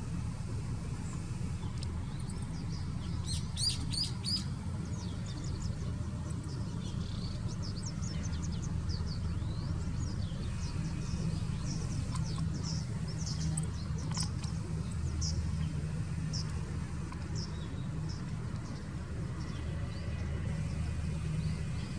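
Small birds chirping: scattered short, high, thin calls, with a quick cluster of them about four seconds in, over a steady low rumble.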